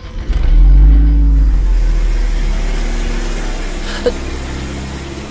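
Convertible car's engine revving up as it pulls away, then fading steadily as it drives off.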